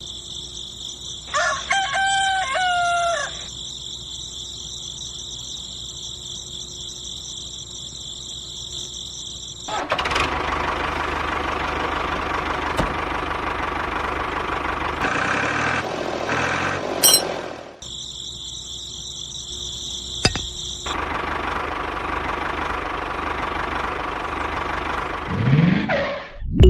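A rooster crows once, about a second in, over a steady high-pitched drone. From about ten seconds in, a loud steady rushing noise takes over, breaks off briefly and then returns.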